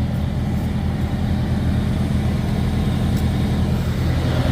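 Semi-truck diesel engine idling steadily, a low even hum.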